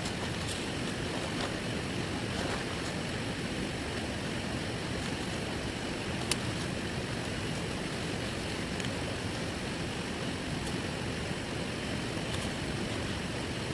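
Steady heavy rain, with scattered sharp ticks through it and one louder tick about six seconds in.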